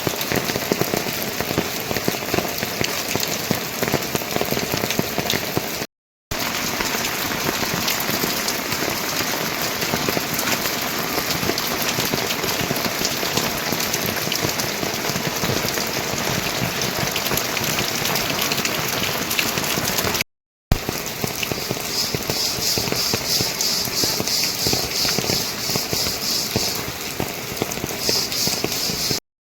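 Steady rain falling, a dense even hiss, cut off completely twice for a moment. In the last third a high, rapidly pulsing sound joins in.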